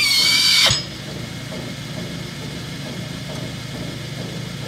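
Bennett 541 gas pump's belt-driven vane pump unit running steadily after its rebuild, drawing good suction. At the very start, a loud squeal that drops in pitch and then holds for under a second before cutting off.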